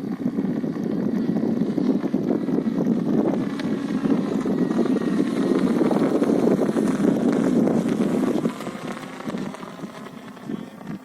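Cessna Cardinal light aircraft's engine and propeller passing by, rising to a peak about two-thirds of the way through and then falling away sharply, with some wind on the microphone.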